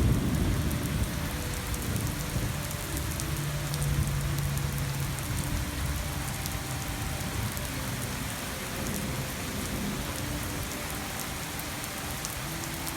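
Steady pouring rain, with a low rumble of thunder dying away over the first few seconds.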